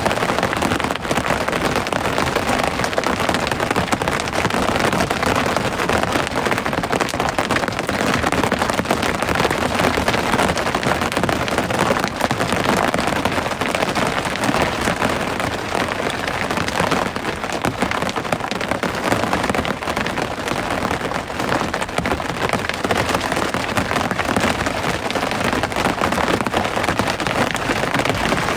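Steady rain falling, a dense continuous patter of many drops.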